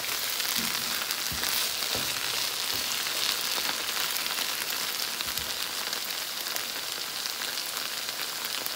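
Sarson ka saag (mustard greens) sizzling and crackling steadily in desi ghee in a pan over a high flame, with a few soft knocks in the first three seconds as it is stirred. The sizzle comes from the ghee frying on its own once the water has cooked off.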